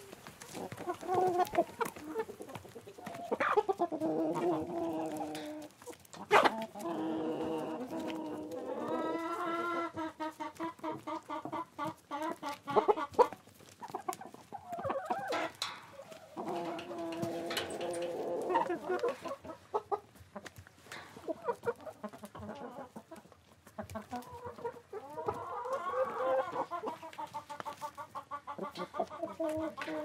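Chickens clucking in several bouts with short pauses between.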